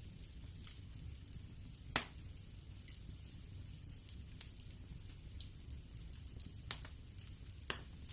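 Wood fire crackling in a fireplace: a steady low rumble of the burning fire with light ticks, broken by a sharp pop about two seconds in and two more pops about a second apart near the end.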